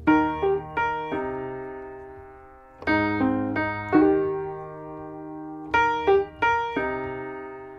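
Piano music: chords struck in short clusters of three or four and left to ring and fade, a new cluster about every three seconds.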